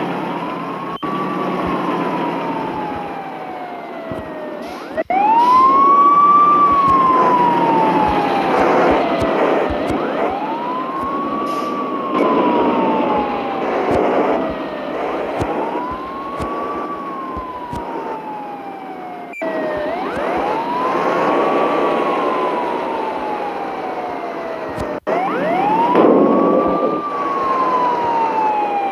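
A siren wailing over vehicle noise: a tone sweeps up quickly, then slides slowly down, over and over, about every three to four seconds.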